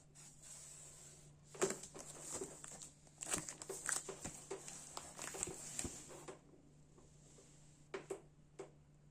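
Packaging being handled and unwrapped: irregular crinkling, rustling and small clicks for a few seconds, then two short clicks near the end, over a faint steady hum.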